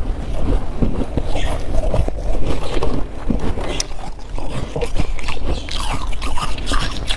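Close-miked crunching of icy humidifier frost: a dense, irregular run of crisp crackles and crunches.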